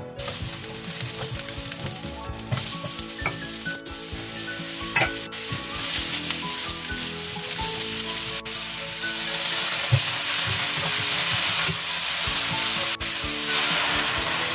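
Oil sizzling in a nonstick pan as scallion, ginger, garlic and dried chilies, then sliced white radish and shiitake mushrooms, are stir-fried and stirred with a silicone spatula; the sizzle grows louder partway through. Near the end water is poured into the hot pan.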